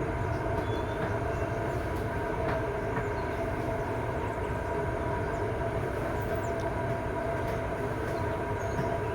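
Passenger train passing at speed, a steady rail rumble and ringing wheel noise, with strong wind buffeting the microphone and adding a low rumble.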